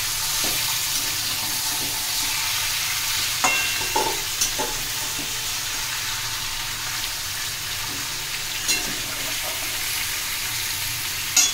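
Marinated chicken pieces sizzling in hot oil in a kadai as a metal spatula stirs them. The spatula scrapes and knocks against the pan a few times, most sharply near the end.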